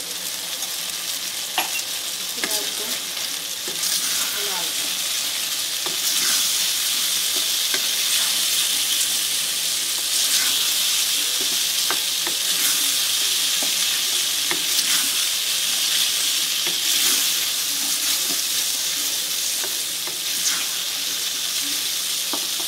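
Chicken cubes sizzling as they fry in a wok, stirred with a wooden spatula that scrapes and taps against the pan. The sizzle grows louder about four seconds in.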